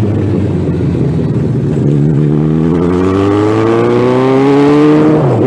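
Suzuki Bandit 1200's inline-four engine running through a bare exhaust pipe, steady at first, then revving up with the pitch climbing steadily for about three seconds before it drops off abruptly near the end.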